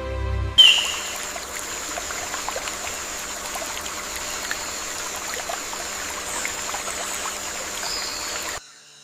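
Water trickling and running in a forest stream: an even rushing hiss with many small ticks and splashes, under a steady high-pitched tone. It starts suddenly about half a second in and cuts off suddenly near the end.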